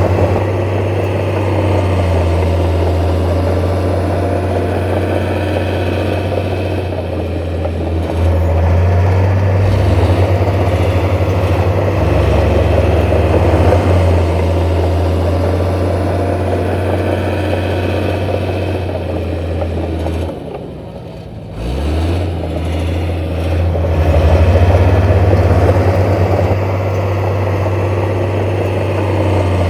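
Heavy diesel engine of earthmoving machinery running under varying load: a deep, steady drone whose pitch steps up and down, dropping away briefly about twenty seconds in before picking back up.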